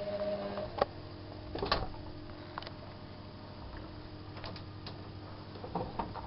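Bauknecht WAK7751 washing machine running a 60 °C mixed-wash cycle: a motor tone stops a little under a second in, leaving a low hum with scattered clicks and knocks from the machine.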